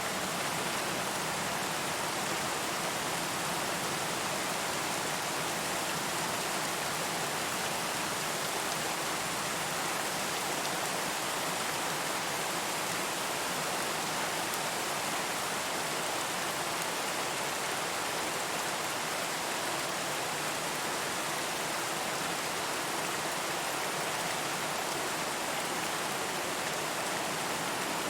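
Steady rain falling, an even hiss with no distinct drops or thunder standing out.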